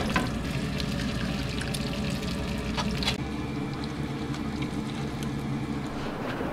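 Eggs frying in hot bacon grease in a nonstick pan, a steady sizzle, with a few light clicks of shell and spatula against the pan.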